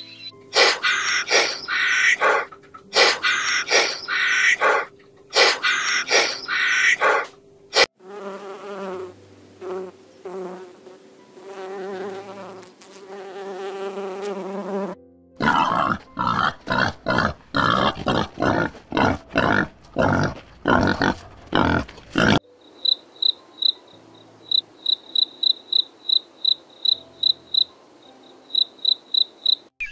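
A run of different animal sounds. It opens with loud rasping pulses. A bumblebee's buzzing hum follows, rising and falling. Another stretch of rapid rasping pulses comes next, and it ends with crickets chirping: a clear high chirp repeated about four times a second.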